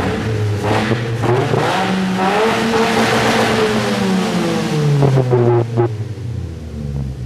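Ford Focus with a Steelhaus aftermarket exhaust, its engine revving: the note climbs for about two seconds, holds, then drops away, with a couple of sharp cracks from the exhaust as the revs fall.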